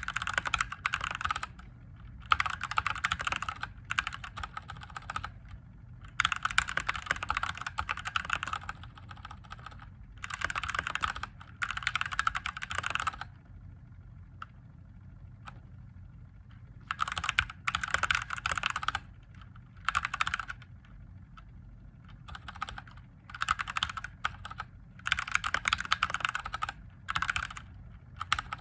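Typing on a mechanical keyboard with Gateron Yellow linear switches: runs of rapid keystrokes in spurts of a second or two, broken by short pauses and a longer stop a little after halfway.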